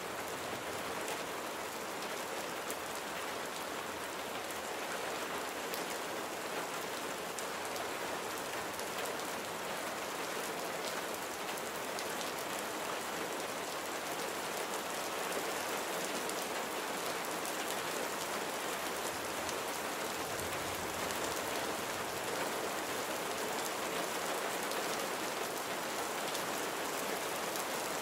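Steady rain falling, an even hiss of drops striking a surface with fine pattering of individual drops.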